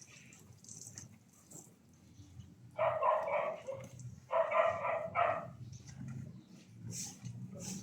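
A dog barking in three drawn-out bursts, each a little under a second long, between about three and five and a half seconds in.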